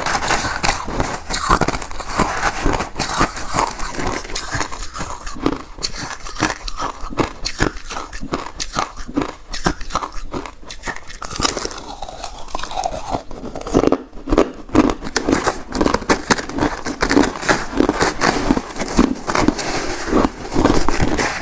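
Close-miked chewing of refrozen crushed ice: a continuous run of rapid, sharp crunches as the ice is bitten and ground between the teeth.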